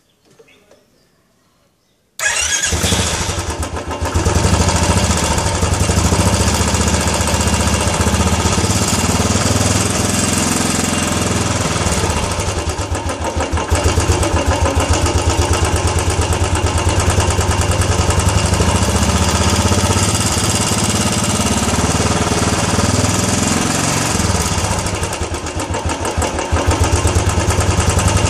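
Royal Enfield Classic 350 single-cylinder engine starting about two seconds in, then running at a steady idle with an even, fast pulsing beat.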